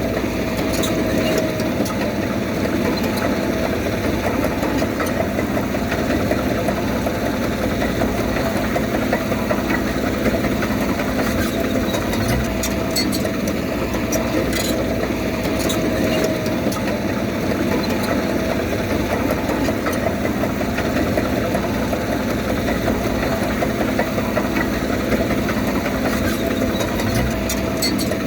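Diesel engine of heavy earthmoving machinery running steadily, with a steady whine above it and occasional light clicks.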